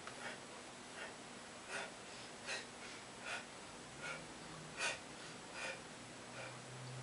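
A man breathing hard from abdominal crunches, a quick noisy breath about every three-quarters of a second.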